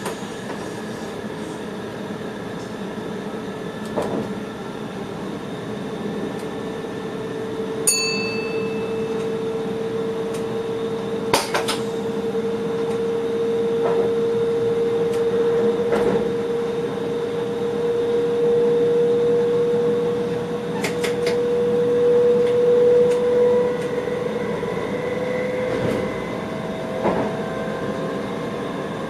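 Train cab interior while running: steady rumble of the train under way, with a held motor whine whose pitch creeps slowly upward and several rising tones near the end as the train gathers speed. There is a short high beep about 8 seconds in, and a few sharp clicks and knocks.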